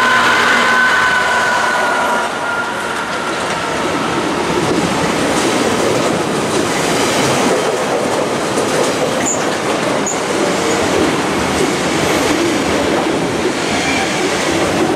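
Colas Rail Class 66 diesel freight locomotive passing close by, its engine tone fading over the first two or three seconds. A long train of flat wagons loaded with concrete sleepers then rolls past with a steady rumble of wheels on rail, and two brief high wheel squeals come about nine and ten seconds in.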